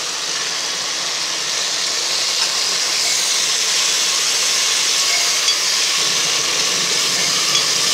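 Mint leaves sizzling in hot oil and ghee in a pressure cooker as a ladle stirs them: a steady hiss with a few faint ladle clicks.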